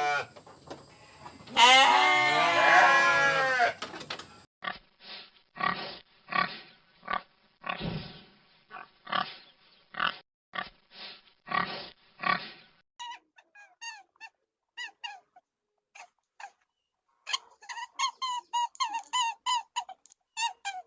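A run of separate animal recordings. A wavering bleat comes about two seconds in, then a long series of short pig grunts, about two a second. Near the end come sparse, quick chirping calls, then a faster run of them.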